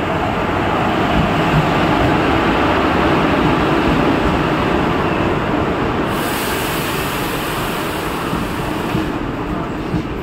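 Express passenger train pulling into a station platform: the steady rumble and rattle of the locomotive and coaches rolling past on the rails, easing slightly as the train slows. A high hiss joins in for a few seconds about six seconds in.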